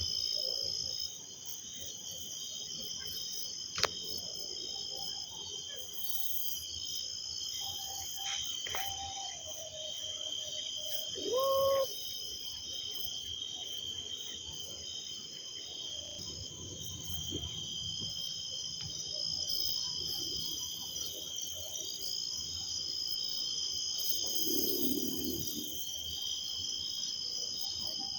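A chorus of crickets and other insects chirring steadily at several high pitches, some of them in a pulsing rhythm. About eleven seconds in there is a brief, louder call that rises and then holds.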